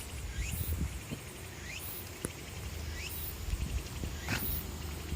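Insect calls outdoors: short, high, rising chirps repeating about every second and a half, over a low rumble.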